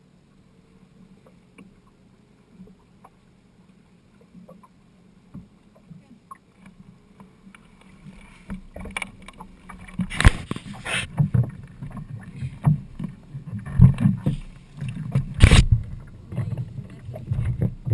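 Boat on the water: at first only a faint low hum and small knocks, then from about ten seconds in a louder, irregular low thumping with a couple of sharp bangs.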